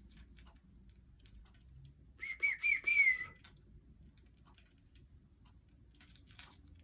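Congo African grey parrot giving one short, wavering whistle lasting about a second, a little over two seconds in, over faint scattered clicks.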